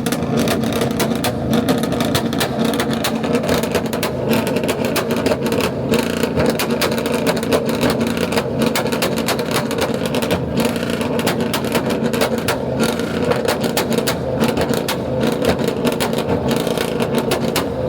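Chevrolet Silverado pickup's engine held on a two-step rev limiter: a rapid, continuous stutter of limiter pops over a steady engine note, stopping near the end.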